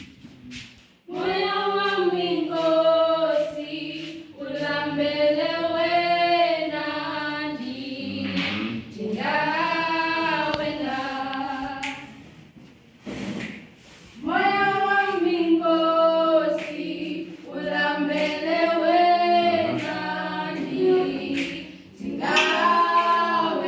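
A group of voices singing a worship song, apparently unaccompanied, in long held phrases with short breaks between them.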